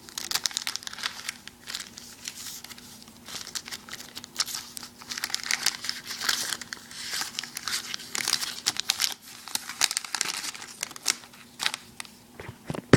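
A foil Yu-Gi-Oh booster pack being torn open and crinkled by hand, with irregular crackling rustles of the wrapper.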